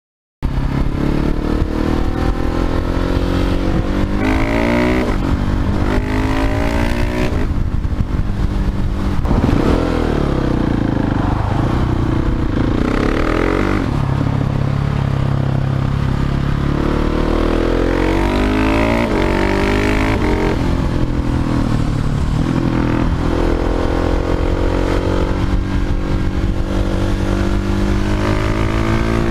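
Husqvarna 701 Supermoto's single-cylinder engine through a Leo Vince slip-on exhaust, on the move: revs climb and drop back again and again as it accelerates and shifts gears.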